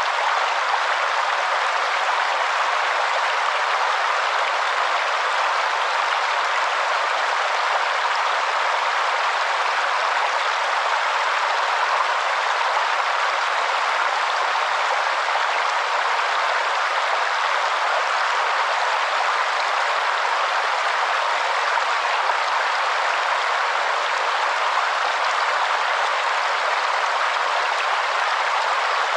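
Waterfall, a steady rushing hiss of falling water with no change in level, thin in the bass.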